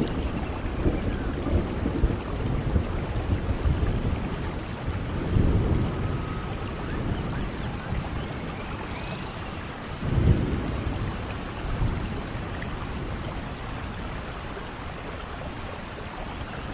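Steady rain falling with low rumbles of thunder, swelling about five seconds in and again around ten seconds.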